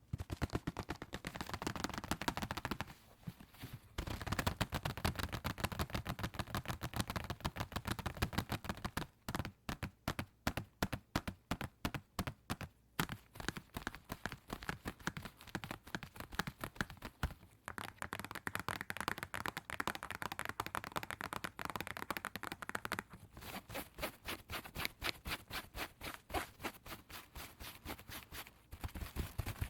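Fingers tapping quickly on a cardboard tissue box, in fast runs of taps with short pauses, at times slowing to about four separate taps a second.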